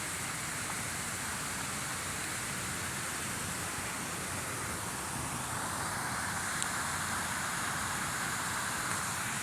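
Steady hiss of rain outdoors, with traffic on the wet road swelling louder about halfway through.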